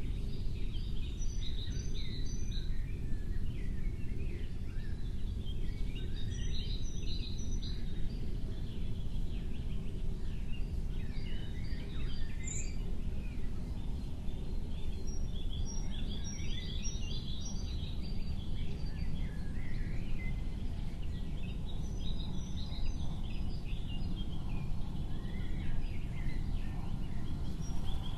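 Small birds chirping and twittering in short bouts every few seconds, over a steady low rumble of background noise.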